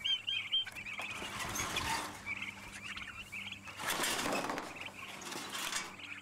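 Birds chirping in repeated short phrases, with a louder noisy swell about four seconds in.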